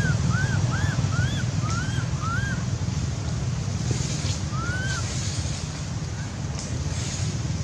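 Baby monkey squeaking: a quick run of short rising-and-falling cries, about two or three a second, then one more a couple of seconds later, over a steady low rumble.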